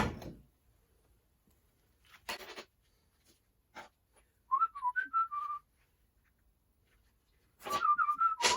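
A person whistling a few short snatches of a tune, one phrase about halfway through and another near the end, with a few brief clatters in between.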